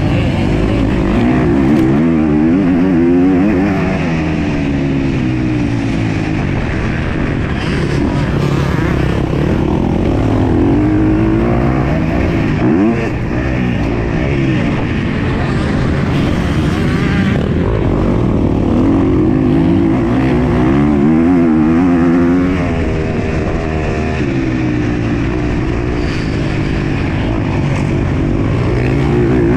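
MX2-class motocross bike engine racing, its pitch rising and falling again and again as the rider opens and closes the throttle and shifts through the gears.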